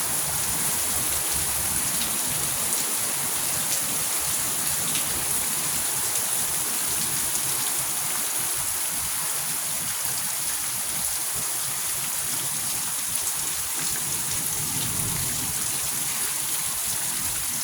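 Rain of big raindrops falling in a steady, even hiss.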